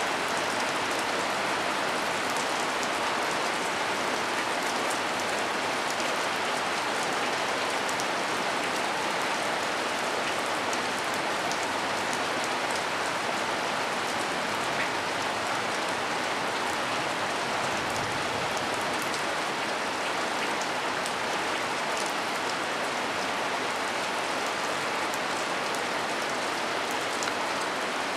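Heavy rain falling hard and steadily, an even dense hiss with scattered individual drop ticks on top.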